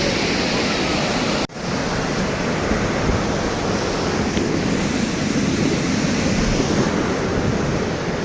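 Steady roar of a large waterfall's water crashing down, heard close by with some wind on the microphone. The sound cuts out for an instant about a second and a half in, then resumes.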